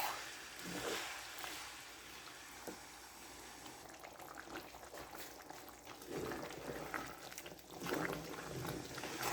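Chicken in a pan of spiced masala simmering in the water it has released, the liquid bubbling, with louder stretches about a second in and again near the end.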